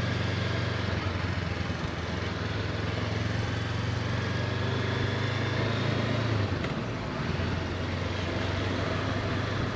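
Honda CB500X motorcycle engine running steadily while riding, under a constant rush of wind and road noise. The engine note drops about six and a half seconds in, then runs on at a lower pitch.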